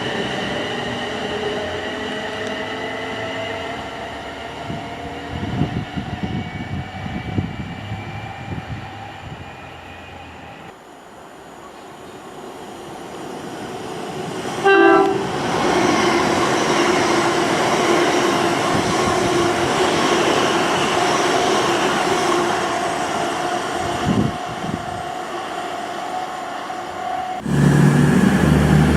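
Trains at a station. A train's rising motor whine fades away. Then a train gives a short horn blast about halfway through and runs past with a loud steady rumble. Near the end, after a sudden change, comes a low steady engine note.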